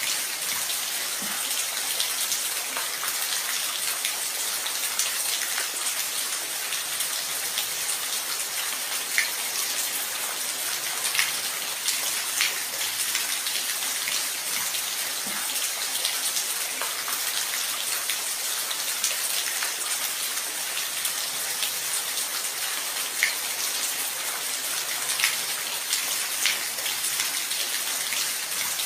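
Steady rain with individual drops pattering close by, heard as a continuous hiss with scattered sharper drop hits.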